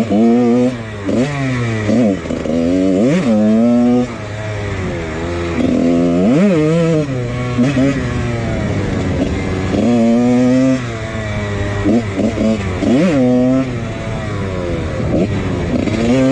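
1999 Husqvarna CR125 two-stroke dirt bike engine being ridden hard, revving up and dropping back over and over as the rider works the throttle and shifts gears.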